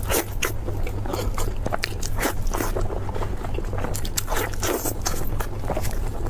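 Close-up eating sounds: a person biting and chewing food, with a quick, irregular run of crunchy, wet clicks and crackles. A steady low hum runs underneath.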